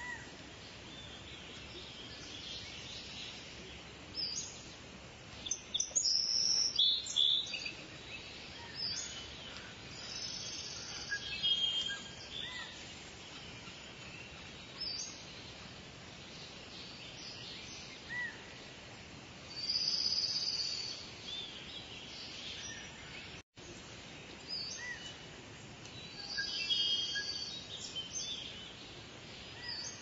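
Wild birds calling and chirping in repeated short bursts of high trills and chirps over a steady background hiss of outdoor ambience.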